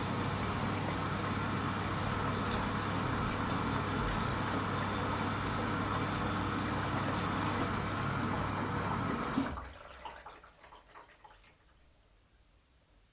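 Washing machine moving water, with water rushing over a steady low hum. It cuts off with a click about nine seconds in, leaving a few seconds of fading trickles and drips.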